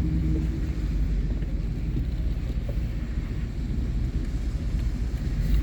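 A vehicle driving along a street: a steady low engine and road rumble.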